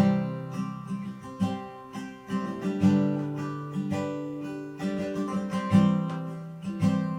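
Acoustic guitar strumming chords without voice, a hard strum about every second and a half with lighter strokes between, the chords ringing on.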